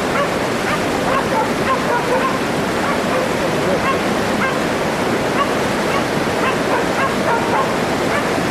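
Pack of stray dogs barking again and again in short barks while harrying a wild boar, over a steady rushing background noise.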